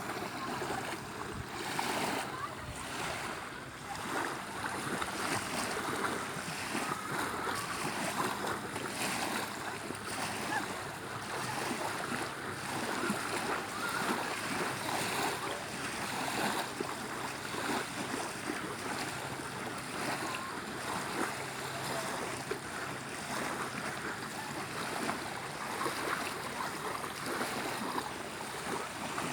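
Sea waves washing onto the shore: a steady rush of surf.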